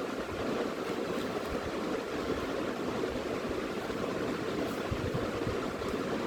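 Steady, even rushing noise with no distinct strokes or pauses.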